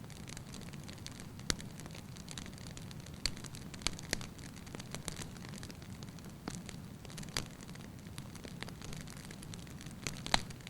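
Wood fire burning in a fireplace: a steady low rumble of flames with sharp, irregular crackles and pops from the logs, the loudest about a second and a half in and again near the end.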